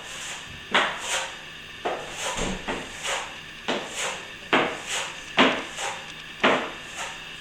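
Steel plastering trowel sweeping over a fresh finish coat of plaster, wetted with water to polish it smooth. It makes a run of short, sharp scraping strokes, about two a second and unevenly spaced.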